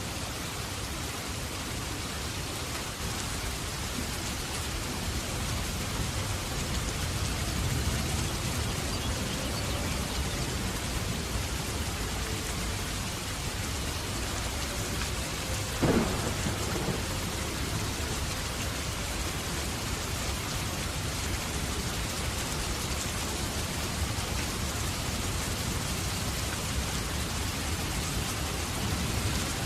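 Steady heavy rain with low rolling thunder, and one sharp thunder crack about halfway through.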